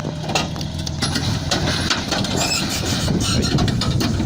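A heavy engine running: a steady low hum at first that turns into a dense low rumble with scattered knocks and rattles.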